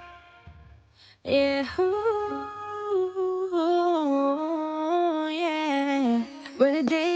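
A single voice humming a slow wordless melody, holding notes that step up and down, as the intro of a song. It comes in about a second in, after a brief low, quiet moment.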